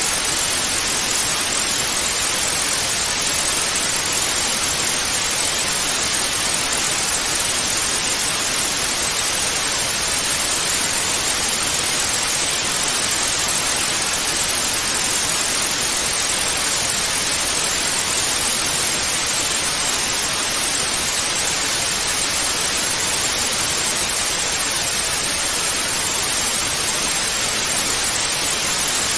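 Television static (snow) hiss: a steady, unbroken white-noise rush, brighter in the upper range, with no change throughout.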